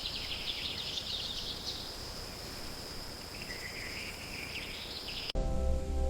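Nature ambience: a steady high insect drone with quick bird chirps over it, in two spells. It cuts off abruptly about five seconds in as music begins.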